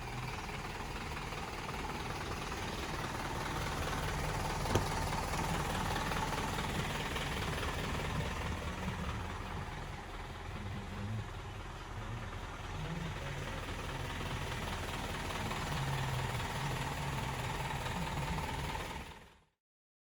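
Isuzu NPR truck's four-cylinder turbo-diesel engine running steadily, with a single sharp click about five seconds in; the sound cuts off abruptly near the end.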